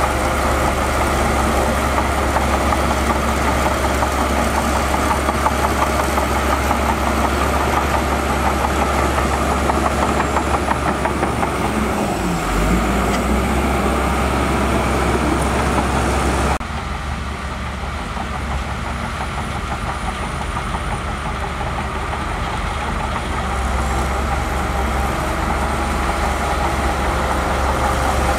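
Heavy diesel engine of earth-moving machinery running under load, with a brief dip in pitch about twelve seconds in. About two-thirds of the way through the sound changes abruptly to a quieter, duller engine sound.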